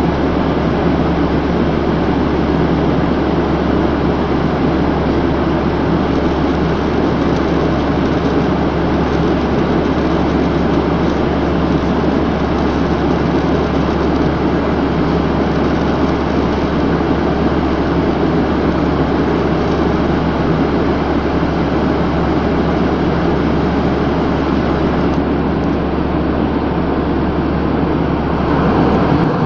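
Steady noise of an airliner cabin in flight: engine and airflow noise, with a constant low drone under it.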